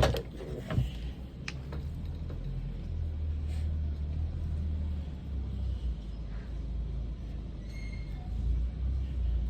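A steady low rumble, with a couple of light clicks in the first second and a half.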